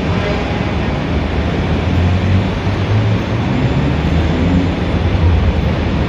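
Busy city street traffic: a steady din of vehicle engines and tyres, with a low engine rumble that grows heavier from about a second in.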